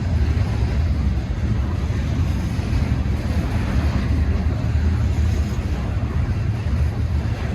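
Steady, loud low rumble with a noisy hiss above it, even throughout with no separate knocks or tones.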